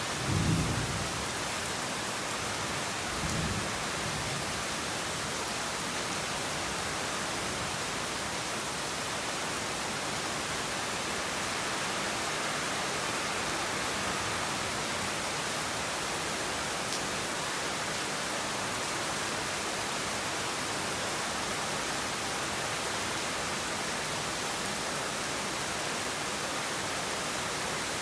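Heavy rain falling steadily in an even hiss, with a low rumble of thunder in the first second and a brief, weaker rumble about three seconds in.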